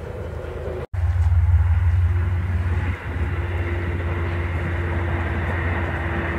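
Passenger train running past across the water: a steady low rumble with a faint steady ringing tone above it. The sound cuts out abruptly for a moment about a second in and dips briefly near the middle.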